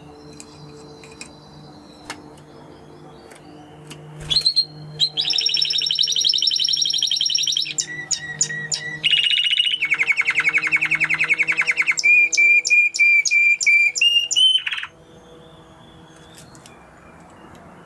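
Spanish Timbrado canary singing a loud song of rapid trilled tours, starting about four seconds in: a fast high trill, then lower rolling trills and a run of pulsed notes, before it stops suddenly after about eleven seconds. A faint low hum and scattered faint chirps lie under it.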